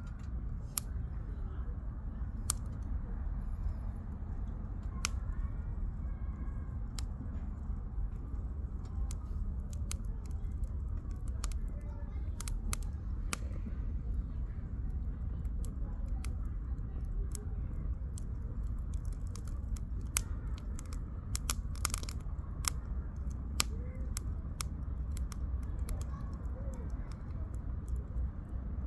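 Wood campfire burning, with sharp irregular crackles and pops of the firewood over a steady low rumble.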